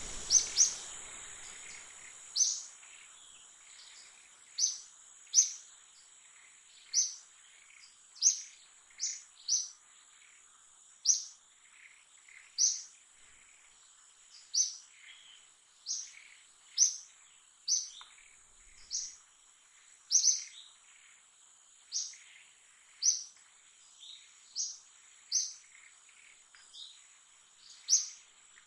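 A bird giving short, sharp, high chirps over and over, roughly once a second at an uneven pace, over a thin steady high tone.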